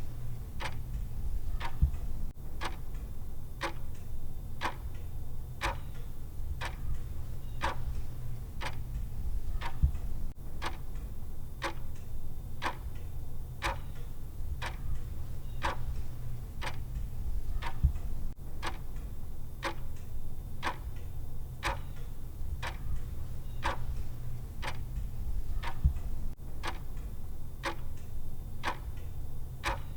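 Clock-style timer ticking, evenly spaced sharp ticks a little more than once a second, over a low steady hum.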